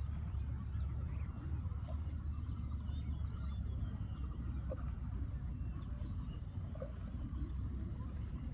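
Birds chirping in many short calls over a steady low rumble.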